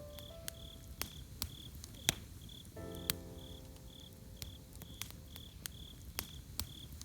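Campfire crackling with scattered sharp pops, over a cricket chirping steadily about twice a second. Soft sustained music notes come in about three seconds in.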